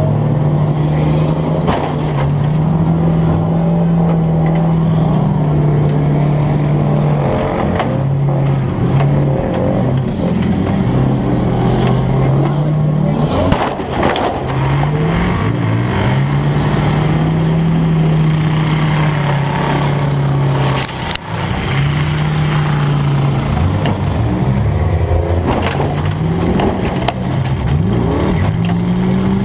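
Inside the cab of a full-size Ford demolition-derby car, its 4.6-litre V8 revs up and drops back again and again as the car accelerates, backs up and charges. Two sharp crashes cut through, one about 14 seconds in and another about 21 seconds in.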